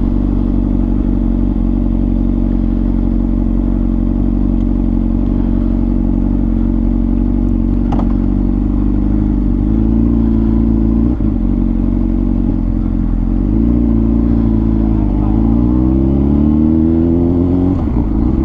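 Motorcycle engine running at a steady low speed, then dipping and rising in pitch several times in the second half as the throttle is eased and opened again. The bike's exhaust is fitted with a dB killer.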